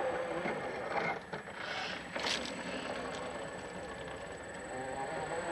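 Radio-control scale truck's motor and gears whining at a wavering pitch as it drives over a trail, with a couple of sharp clicks about one and two seconds in.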